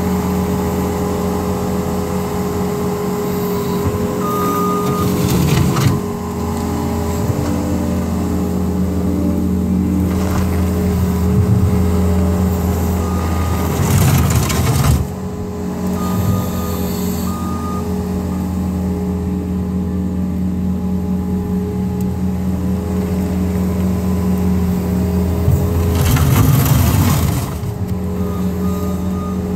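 New Holland L230 skid steer's diesel engine running steadily under work as the loader scoops material off the walkway. There are three louder, rougher stretches of a second or two each, a few seconds in, about halfway and near the end, and short high beeps of a backup alarm sound at a few points.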